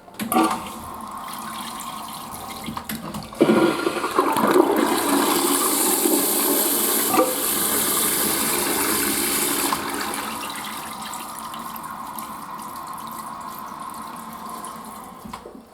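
Toilet flushing: water starts just after the start, then rushes much louder from about three and a half seconds in with a high hiss, eases off after about ten seconds and stops just before the end.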